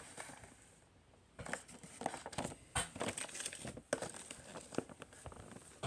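Crinkling and rustling of packaging being handled, with irregular clicks and crackles, beginning about a second and a half in.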